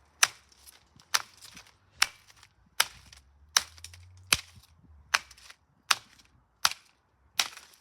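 About ten sharp hits, evenly spaced roughly every 0.8 seconds, on the burnt remains of a plastic DVD case and disc.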